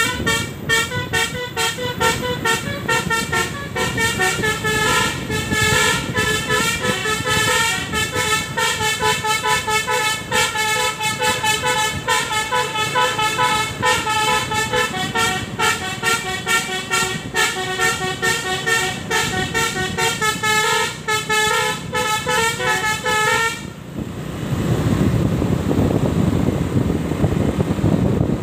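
A run of loud, horn-like pitched notes, stepping from pitch to pitch every fraction of a second for about 24 seconds, then stopping abruptly and giving way to a steady rushing noise.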